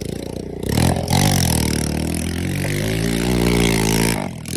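Motorcycle engine idling, then revved up sharply about a second in and held at high revs for about three seconds before dropping back, with one short blip near the end.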